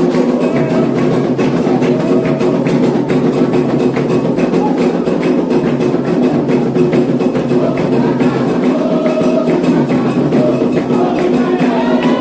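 Candomblé ritual percussion: atabaque hand drums playing a steady rhythm with a bell struck along with them, and voices singing faintly behind.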